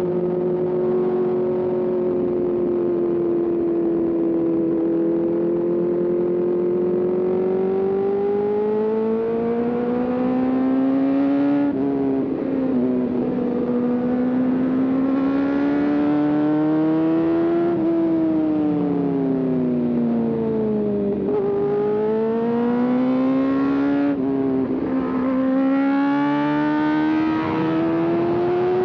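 Sport motorcycle engine heard from the riding position, pulling at high revs: the pitch climbs, drops sharply at gear changes, and falls away when the throttle is rolled off, then climbs again. A steady rush of wind noise runs underneath.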